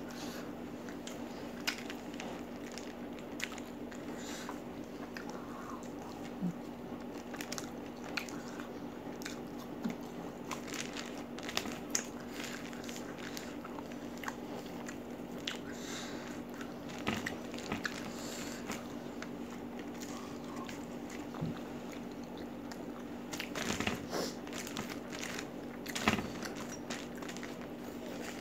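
Close-up chewing and biting with frequent crisp crunches and wet mouth sounds: a person eating chicken in green chili sauce with raw chilies and vegetables. A steady low hum runs underneath, and the crunching is busiest near the end.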